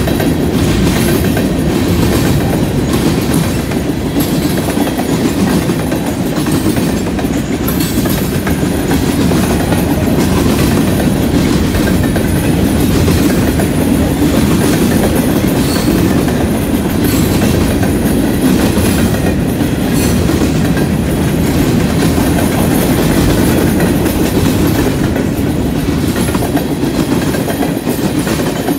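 Freight train's covered hopper and tank cars rolling past: a loud, steady rumble of steel wheels on rail, with the clickety-clack of wheel sets running over the track.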